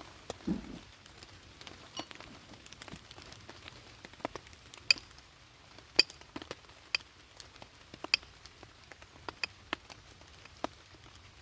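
Scattered raindrops striking a surface, heard as irregular sharp taps over a faint hiss of rain, a few of them loud. There is a short dull thud about half a second in.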